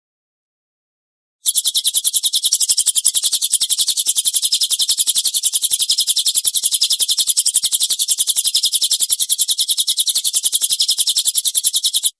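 A songbird's 'tembakan kasar' (rough shooting) call, played as a training recording: an unbroken, fast trill of sharp, high notes at about ten a second. It starts about a second and a half in and cuts off suddenly just before the end.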